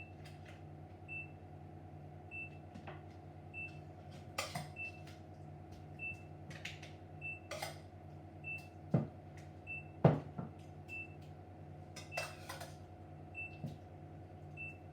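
Kitchen handling sounds, scattered clicks and knocks of a dish and utensils, two sharper knocks about nine and ten seconds in, over a steady appliance hum. Throughout, a faint electronic beep repeats about every 0.6 seconds.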